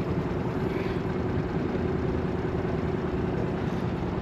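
A steady engine drone: an unbroken low hum at a constant pitch.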